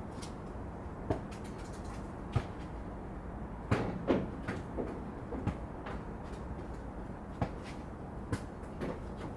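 Park playground ambience: a steady low hum with sharp knocks and clicks scattered irregularly through it, the loudest pair about four seconds in.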